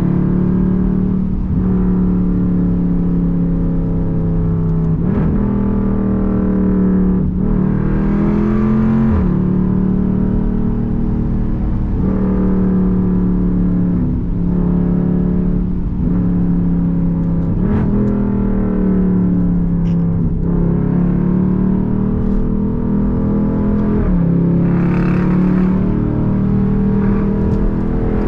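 Straight-piped Jeep Grand Cherokee SRT's 6.4-litre HEMI V8 exhaust droning loudly at fairly steady revs while driving, its pitch dipping and shifting briefly every few seconds.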